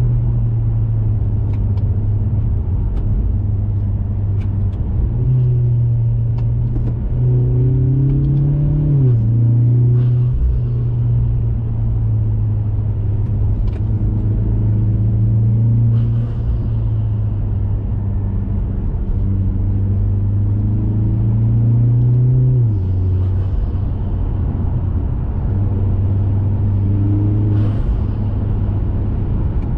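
2021 Mazda 3 Turbo's 2.5-litre turbocharged four-cylinder, through a CorkSport cat-back exhaust with a BMS high-flow intake, cruising at a steady drone. Its note climbs about eight seconds in and steps down sharply at nine, then drops again a little past halfway, as on gear changes.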